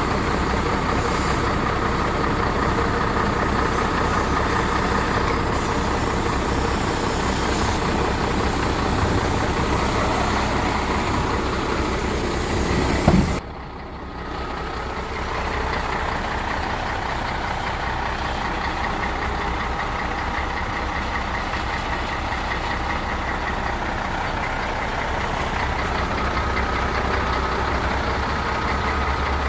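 MAN 33.403 6x4 tipper's diesel engine running at a steady idle. About thirteen seconds in, a brief loud knock is followed by a quieter, duller engine sound.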